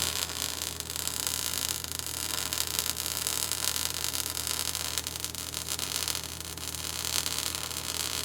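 Steady static hiss with a low, even electrical hum underneath; no music or engines.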